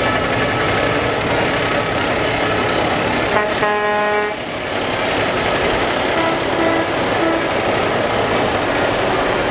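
Trucks passing in a parade, their engines running in a steady loud wash of noise, with one short horn blast about three and a half seconds in.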